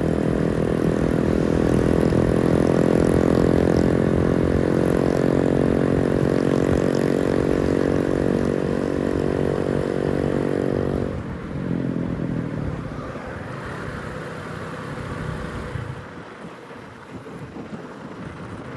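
Motorcycle engine running at a steady speed while riding. About eleven seconds in, the engine note drops away and the sound falls to quieter road and wind noise, as when the rider closes the throttle and slows.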